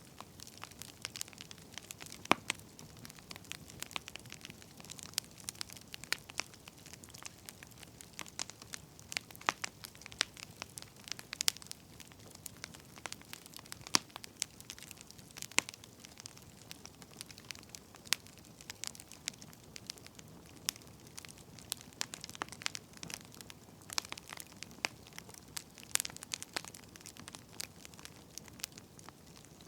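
Wood fire crackling, with irregular sharp pops and snaps, a few louder ones, over a soft steady hiss.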